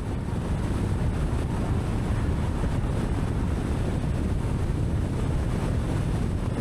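Wind buffeting the camera microphone: a steady low rumble with no breaks.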